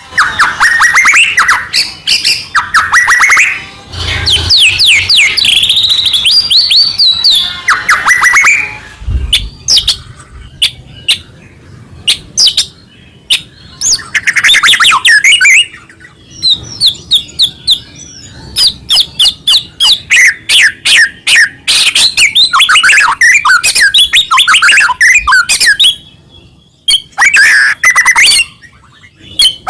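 White-rumped shama singing loudly in full song: rapid, ever-changing phrases of whistles, trills and sharp clicking notes, with brief pauses between bursts.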